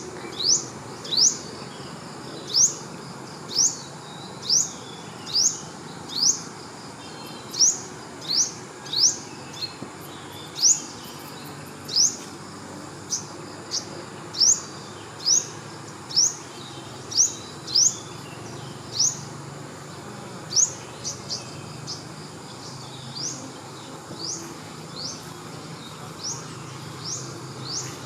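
A wild creature's call: a short, high, rising chirp repeated about once a second, growing fainter after about twenty seconds, over a steady outdoor hiss.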